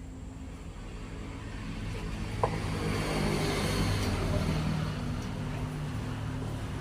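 A motor vehicle's engine running and passing by, its noise swelling to a peak about four seconds in and then easing off, with one short click partway through.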